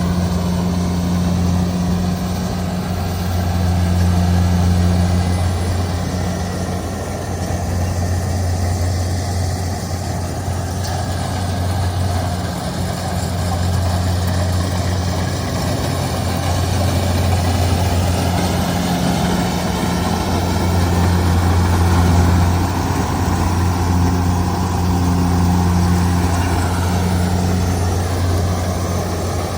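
Diesel engine of a Kubota DC70G Plus combine harvester running steadily, a deep continuous hum that swells and eases slightly in loudness.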